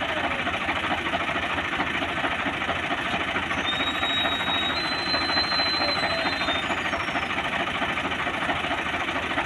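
A tractor's diesel engine running with a rapid, steady knocking chug. A thin high tone sounds for a few seconds about four seconds in.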